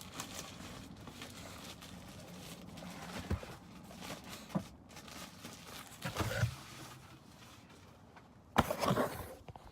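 Handling noise from a car radio unit being brought out to show its screen: rustling and scattered knocks, with a sharper knock about eight and a half seconds in.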